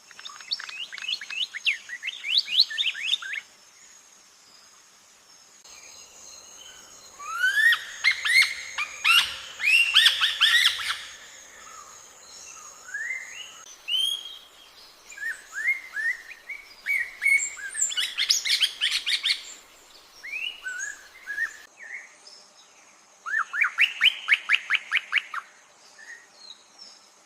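Songbirds singing in repeated bursts of quick rising chirps, separated by quieter gaps, over a steady high-pitched drone.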